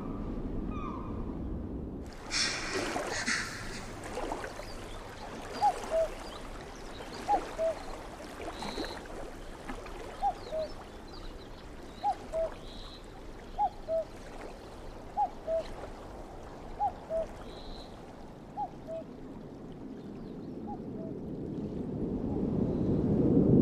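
A bird repeats a two-note call, the second note lower, about every second and a half, over a steady background of flowing river water. A low rushing noise swells near the end.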